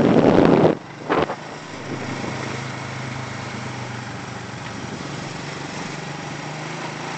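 Small motorcycle engine running steadily on the move. Loud wind rush on the microphone opens it, cutting out within the first second.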